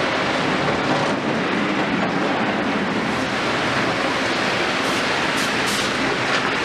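Volvo EC 700 demolition excavator at work in the rain, a steady dense rumble and clatter of machine and breaking material with rain falling over it. A few brief high-pitched sounds come about five to six seconds in.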